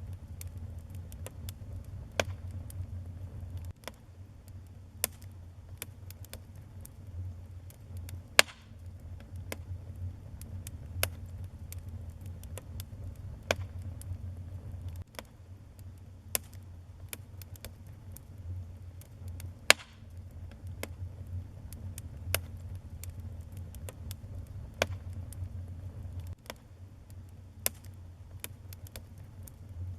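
Wood fire burning in a fireplace: irregular sharp crackles and pops, a few much louder snaps, over a steady low rumble of the flames.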